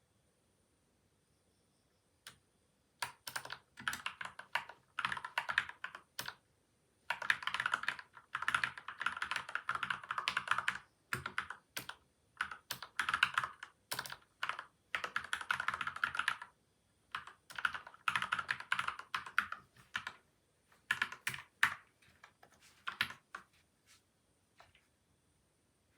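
Typing on a PCL87 mechanical keyboard with lubed linear switches and taped, foam-filled case: bursts of quick keystrokes with short pauses between, starting about two seconds in and trailing off near the end.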